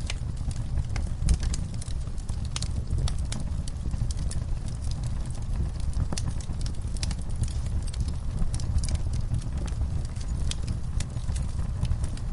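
Wood fire burning in a fireplace, with a steady low rumble of flame and irregular sharp crackles and pops of burning logs, several a second.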